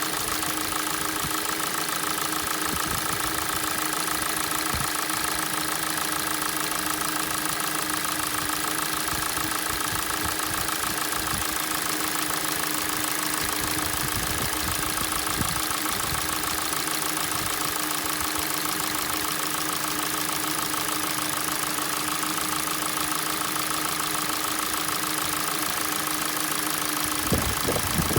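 Hyundai/Kia G4NA 2.0-litre four-cylinder petrol engine idling steadily with a rapid knock, the cold-start knock that the owner says fades as the engine warms up. A few low thumps near the end.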